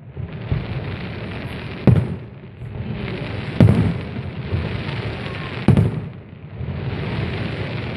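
Fireworks display: aerial shells bursting with loud bangs about every two seconds, four in all, the heaviest three in the middle, over a steady hiss of crackling effects between them.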